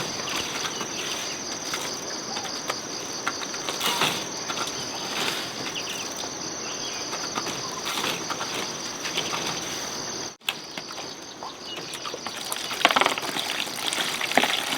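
Forest insects keeping up a steady, high, pulsing drone, with irregular rustling and scraping noises over it. A brief cut in the sound about ten seconds in.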